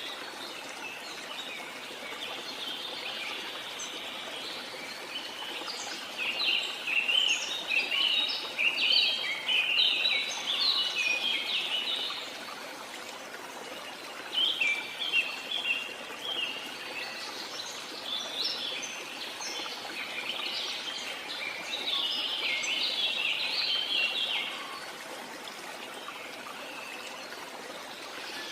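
Waterfall rushing steadily, with songbirds singing over it in bouts of quick chattering notes, loudest from about six to twelve seconds in and again from about seventeen to twenty-four seconds in.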